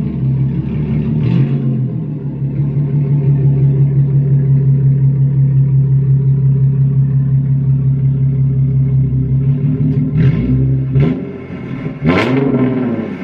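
Infiniti Q50's engine through its aftermarket Tomei exhaust, running at a steady, even pitch for several seconds. Near the end it is revved twice, each rev rising and falling in pitch.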